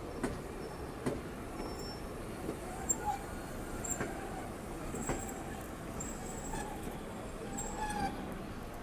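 Street ambience around a tram: a steady low rumble with a few short knocks and clatters, and faint voices.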